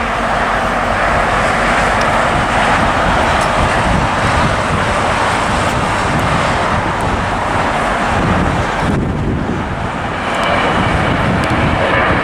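Boeing 737 MAX jet on its takeoff run, its CFM LEAP-1B turbofans at takeoff power making a loud, steady roar. The roar builds at the start and dips briefly about nine seconds in before swelling again.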